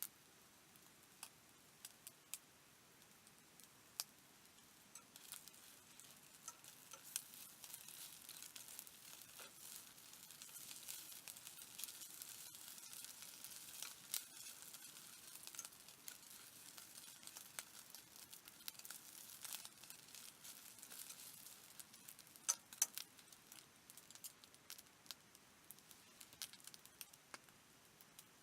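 Faint handling noises: scattered small clicks and soft crinkling, with a light hiss that swells in the middle and a couple of sharper clicks near the end.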